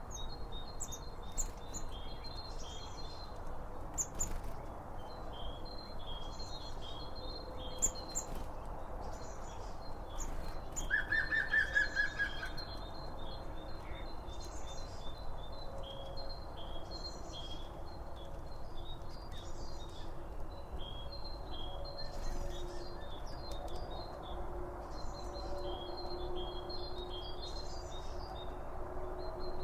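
Songbirds singing: short high chirping phrases repeat every couple of seconds, with a quick trill of rapid notes about eleven seconds in, over a steady low hiss of ambient outdoor noise.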